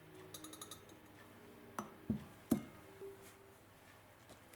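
A decorative jug being handled and set down on the kitchen bench: a quick run of small clicks, then three sharp knocks in under a second, each ringing briefly.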